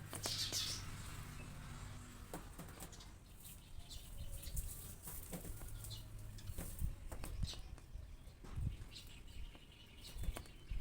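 A small bird fluttering its wings and tapping at a mirror as it attacks its own reflection: a flurry of wing flaps about a second in, then irregular short taps and flutters.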